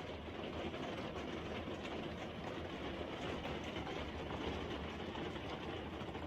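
Steady background noise with no distinct events, mostly low in pitch.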